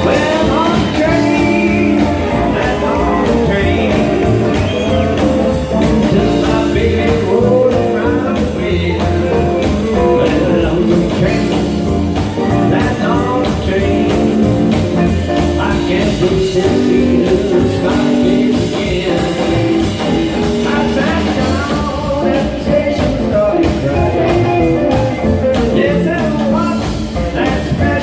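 Live rock-and-roll blues band playing, with electric lead guitar lines full of string bends over a steady bass and drum beat.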